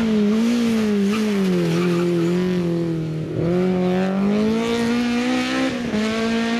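Rally car engine revving hard at full throttle as the car passes at speed, its pitch dipping sharply about three seconds in and then climbing again, with another quick drop near the end as it changes gear.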